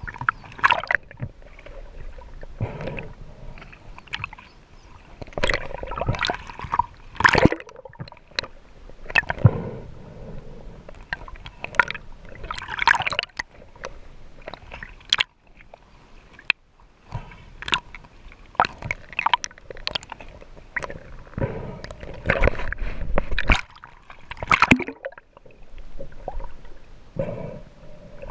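Water sloshing, gurgling and splashing close to the microphone in irregular bursts, as from a freediver moving through the water.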